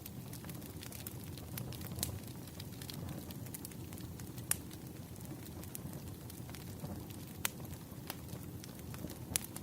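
Bonfire burning: a steady low rush of flames with scattered sharp crackles and a few louder pops.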